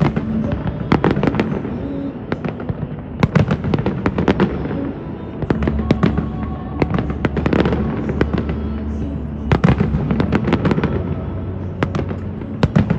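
Aerial fireworks exploding in quick clusters of sharp bangs every few seconds, over a continuous rumble from the display.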